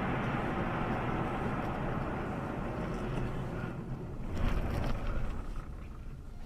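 Steady road and engine noise of a moving vehicle, fading gradually. A louder rumbling burst comes about four and a half seconds in.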